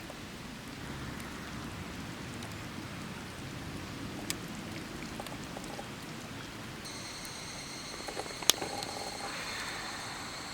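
Food sizzling in a pan, a steady hiss with scattered small pops. About 7 s in a steady high-pitched tone joins, and there is one sharp click shortly after.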